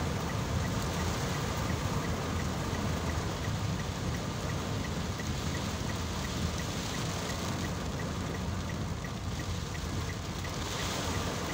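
Heavy rain pelting a car's windscreen and roof, heard from inside the cabin. Under it runs the car's steady low rumble.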